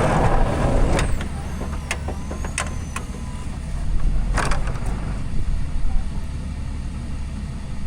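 Pickup truck's diesel engine running with a steady low rumble. A loud rushing noise stops about a second in, and a few sharp clicks and knocks sound over the engine.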